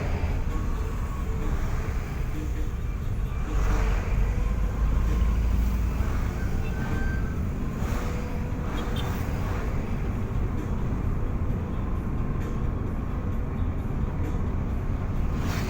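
A road vehicle on the move: a steady low rumble of engine and road noise.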